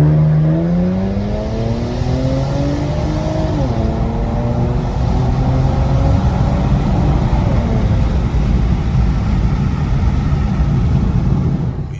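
Infiniti Q60's turbocharged engine, with muffler and resonator deleted, accelerating hard: the exhaust note climbs with the revs, drops at an upshift about four seconds in, climbs again, then settles into a steady drone of engine and road noise.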